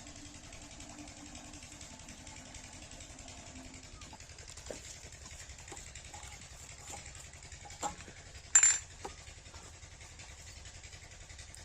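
A 7 HP diesel water-pump engine running steadily with a fast low chug. Scattered light knocks sound over it, and one loud metallic clank comes about two-thirds of the way through.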